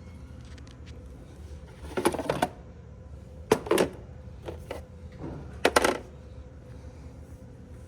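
Hard items clattering as they are handled, in three short bursts with a few light clicks between them, like dishes or glassware knocking together.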